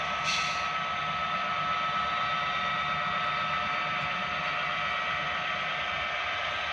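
Model diesel locomotive sound decoders playing a steady diesel engine sound through small onboard speakers, with a thin, buzzy, speaker-like quality and a steady whine; a short hiss sounds near the start.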